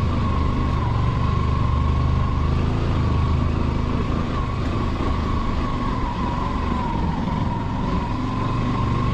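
Motorcycle engine running steadily while riding, a low hum with a steady high whine over it.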